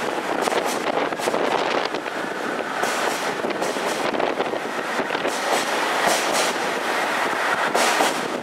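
A diesel train running past on the track below, its wheels rumbling steadily over the rails, with wind noise on the microphone.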